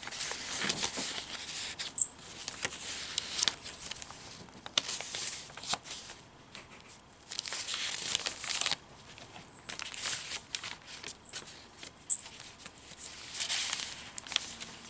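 Paper pages of a handmade junk journal rustling and crinkling as they are handled and turned, in several separate bursts with small ticks and taps in between.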